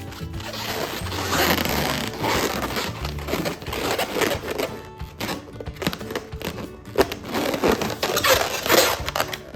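Background music over repeated noisy rubbing and crinkling from latex balloons being handled, with sharp cracks. The loudest crack comes about seven seconds in.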